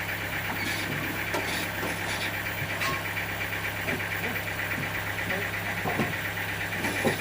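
Sawmill machinery running with a steady hum, with a few scattered knocks and clicks, the loudest near the end.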